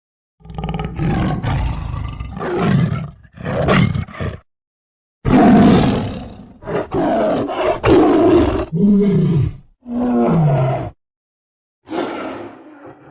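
Tiger roaring and growling in a string of short separate roars with brief gaps, a couple near the end sliding down in pitch, and a last one fading out near the end.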